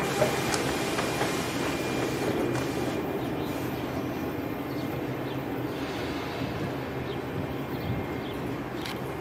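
Passenger train rolling along the rails: a steady rumble and rush with a few sharp wheel clicks, gradually easing.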